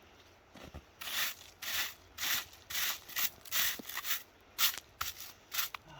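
Ice being scraped and chiselled off miniature railway track with a hand ice chisel, in short repeated scraping strokes about two a second, starting about a second in.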